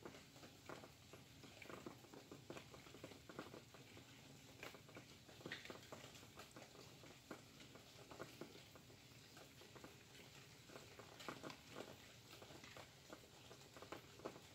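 Faint rain falling: a soft steady hiss with scattered, irregular drop ticks.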